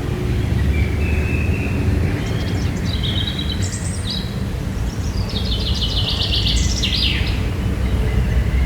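Wild birds calling in a forest: short high notes and a fast rattling trill in the middle, over a loud steady low rumble.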